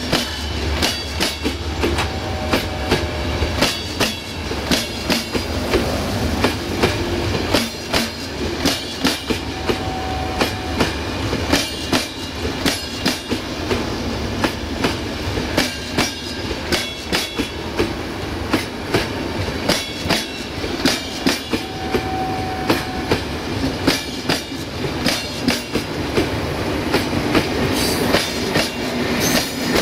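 Railway wagons rolling past on jointed track: wheels clacking over the rail joints in a steady run of sharp clicks over a continuous rolling rumble.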